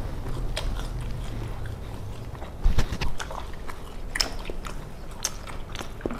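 People chewing and biting into fried snacks close to the microphone, with irregular crunchy, wet mouth clicks. There is a louder low thump about two and a half seconds in.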